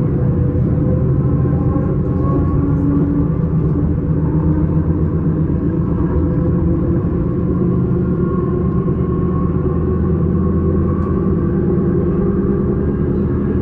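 S-Bahn electric train running at speed: a steady rumble of wheels on rail with a low, even hum from the drive.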